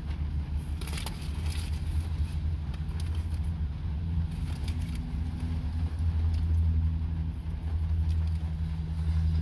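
Car engine idling, a steady low hum heard from inside the cabin, with a few brief faint clicks and rustles.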